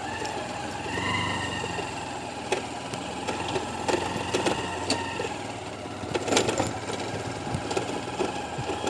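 An engine running steadily with a whining tone that swells slightly about a second in, over a low hum, with scattered clicks and rattles.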